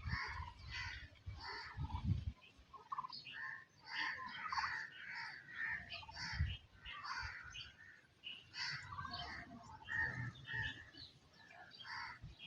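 Several birds chirping and calling, many short calls overlapping, fairly faint, with a few low rumbles underneath.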